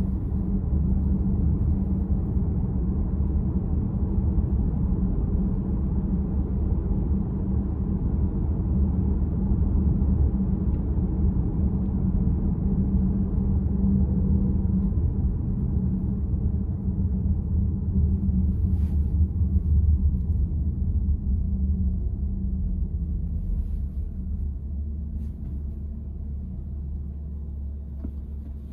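Steady road and tyre rumble inside the cabin of a VW ID.4 electric car while driving, easing off a little near the end.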